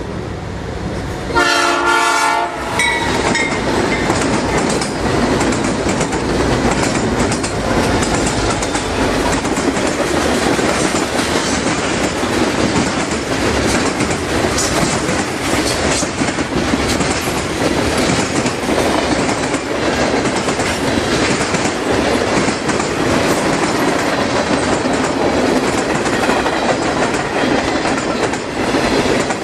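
Freight train horn sounding one short blast about a second and a half in, then the train passing close by with steady rumbling and rapid clickety-clack of wheels over the rail joints.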